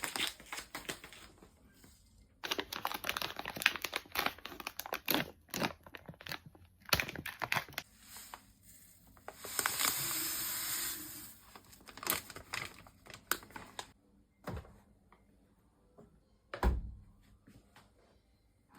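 Rustling and crinkling of something being handled by hand, in irregular bursts. About halfway through comes a steady hiss lasting about two seconds, and near the end a single dull thump.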